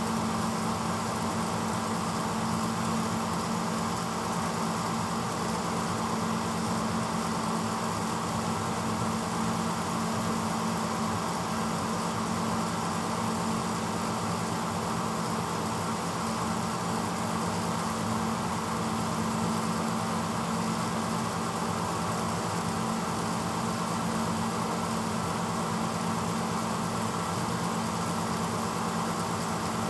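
1986 Hotpoint Potwasher dishwasher running steadily mid-cycle: a motor hum under an even rushing noise.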